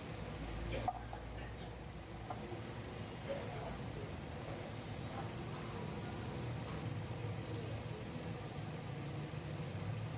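A car engine idling steadily, with a sharp click about a second in and a few faint ticks as electrical tape is handled.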